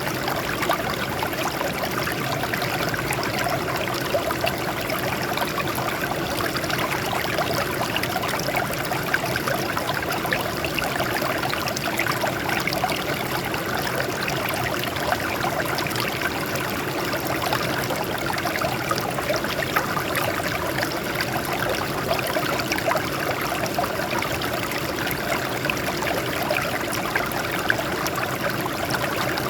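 Water flowing and splashing over rocks, a steady trickling stream.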